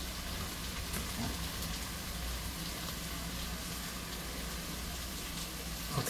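Flour-dredged chicken frying in oil in a cast-iron skillet: a steady sizzle, over a low steady hum.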